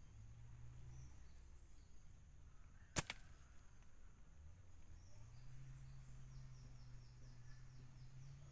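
A single sharp snap about three seconds in, over a faint low hum. Near the end there is a fast run of high chirps, about four a second.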